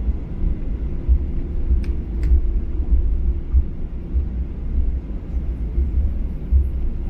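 Low, steady rumble of a Boeing 737-800 on the ground, heard from inside the passenger cabin, with two faint clicks about two seconds in.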